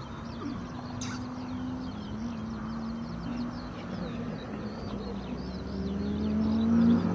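Naturally aspirated 13B twin-rotor Wankel engine of a 1986 Mazda RX-7 FC running on track, its revs climbing and getting louder near the end as the car comes closer. Birds chirp faintly in the background.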